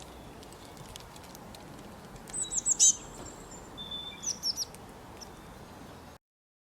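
Bird calling: a quick run of high, downward-sweeping chirps about two and a half seconds in, a short steady whistle, then a second run of chirps, over a faint steady hiss. The sound cuts off abruptly near the end.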